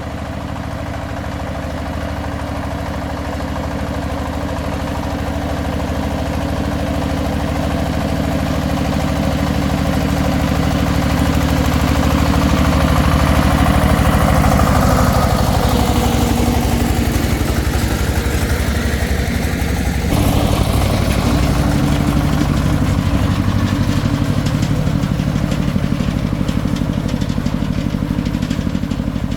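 Engine of a restored công nông farm vehicle running steadily. It grows louder over the first half, then eases a little, with an abrupt change in its note about twenty seconds in.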